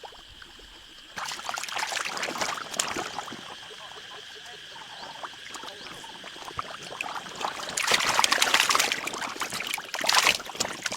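Water splashing and pouring in two bursts, about a second in and again from about eight seconds in, with quieter splashing between.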